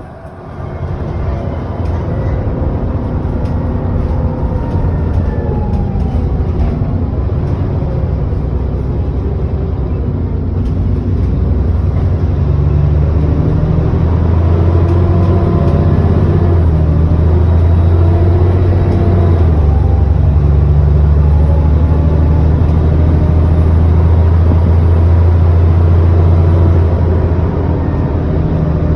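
ADL Enviro400 double-decker bus's engine and drivetrain heard from on board, pulling hard after a quieter moment and rising in level about a second in. The engine note steps in pitch several times as the bus works through its gears. A thin high whine climbs slowly and cuts off near the end.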